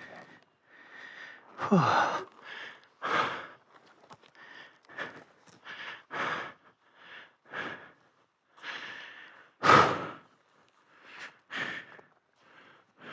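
A person breathing hard and fast, a quick run of heavy, audible breaths. About two seconds in comes a short groan that falls in pitch.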